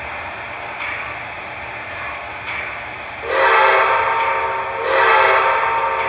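An O-gauge model locomotive's sound system giving a steady hiss, then two long whistle blasts about three seconds in. Two long blasts is the railroad signal for releasing brakes and proceeding, given just after the train is cleared to proceed.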